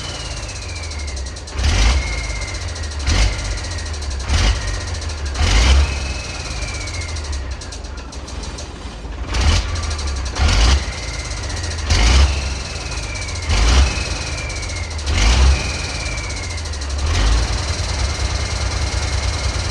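A Ford D-series 1314 truck's turbocharged engine runs with about ten short, sharp bursts of louder sound. Between them, several high whistles fall steadily in pitch, typical of the turbo spooling down.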